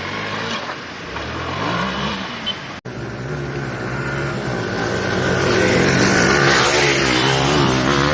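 Off-road motorcycle engines revving, their pitch rising and falling, in two clips split by a sudden cut about three seconds in; the second clip grows louder toward the end.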